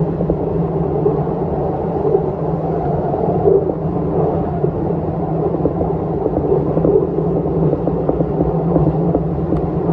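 Electric commuter train running along the line: a steady rumble with an even low hum underneath.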